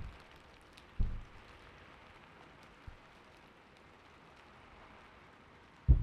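Steady gentle rain hiss, with a few soft, low keyboard keystrokes: one about a second in, a faint one near the middle, and one near the end.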